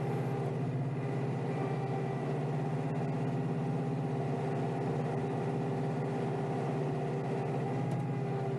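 Kioti DK5320SE tractor's diesel engine running steadily at an even pitch, heard from inside the closed cab.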